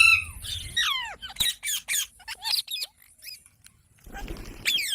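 Pet green parrot calling: a run of short, falling chirps and squawks, a quiet pause of about a second, then a sharp squawk near the end.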